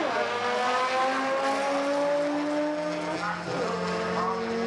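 Drag-racing car engine at full throttle down the strip, its pitch climbing steadily, dropping at a gear change about three and a half seconds in, then climbing again.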